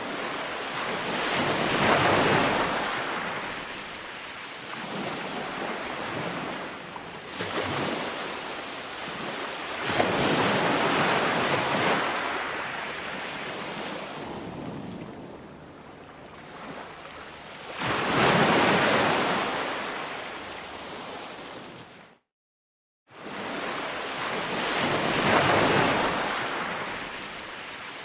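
Ocean waves breaking on a shore, the surf surging and receding in swells every few seconds. The sound drops out briefly about two-thirds of the way through, then resumes.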